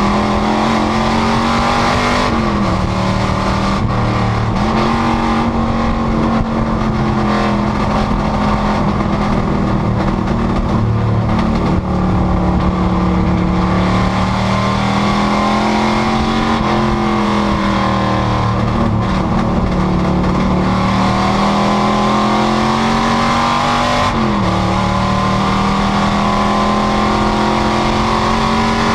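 Panoz GTS race car's engine running hard under racing load, its pitch slowly rising and falling through the lap, with sharp drops about two seconds in and again near the end.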